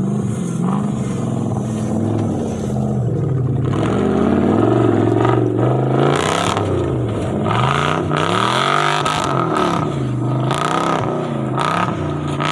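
Off-road vehicle engine revving up and down again and again, with a few short knocks along the way.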